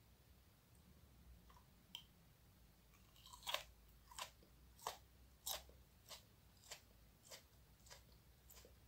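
A person biting into and chewing a fresh superhot chili pod, a Carolina Reaper cross. The first and loudest crunch comes about three and a half seconds in. Steady chewing crunches follow, a little under two a second, growing softer.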